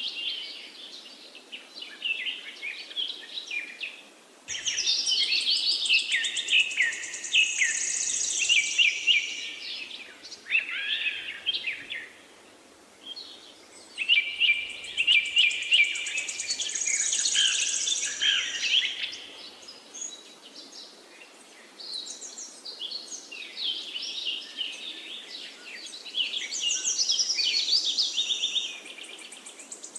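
Songbirds singing in long bouts of rapid, high twittering and chirping, over a faint steady hiss. The singing pauses briefly twice, about twelve and twenty seconds in.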